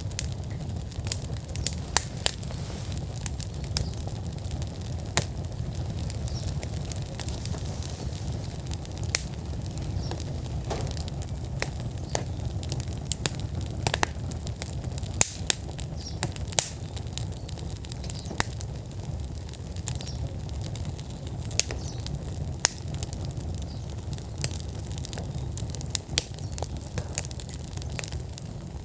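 Wood fire burning fully in an outdoor fire pit: a steady low rush of flame with frequent sharp crackles and pops, a few of them louder snaps.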